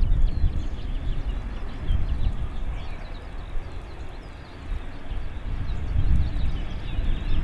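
Airport ambience: an uneven low rumble that swells and fades, with small birds chirping.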